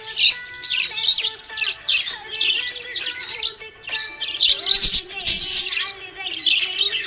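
Budgerigar chirping: a run of short, high-pitched chirps repeating about once or twice a second.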